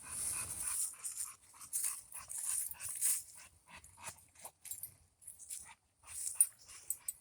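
A dog whimpering in a string of short, quick sounds.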